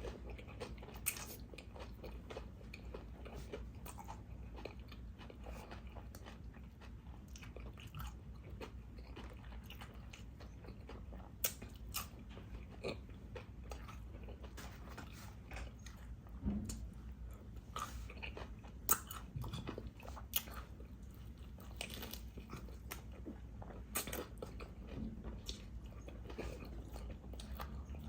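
Close-miked eating: biting into and chewing a tuna sub sandwich with Doritos tortilla chips, with scattered sharp crunches among softer chewing.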